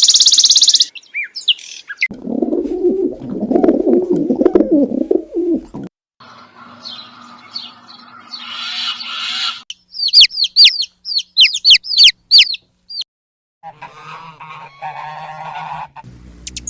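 A sequence of different birds' calls, one clip after another. A fast high trill opens it, then low, rough calls, a mixed stretch of calls, and about a dozen quick, high whistled notes that each fall in pitch, followed by another short run of calls.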